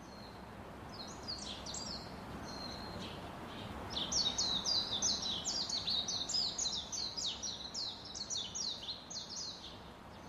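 Small birds chirping in a quick series of short, high, falling chirps, a few about a second in and a steady run of about three a second from about four seconds in, over steady outdoor background noise.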